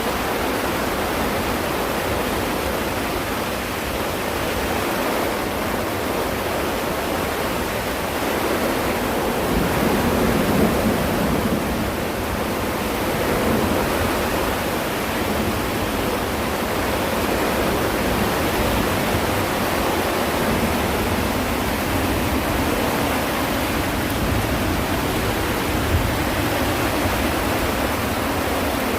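Heavy rain and strong wind in a storm: a dense, steady rush of noise that swells a little about ten seconds in.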